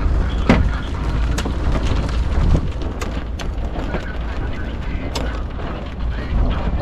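Irregular sharp clicks and knocks from a sailboat's winch and deck gear being worked while sails are set, over a steady low rumble.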